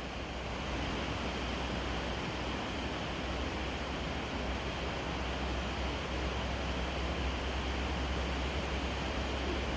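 Steady, even hiss with a low hum underneath and no distinct events.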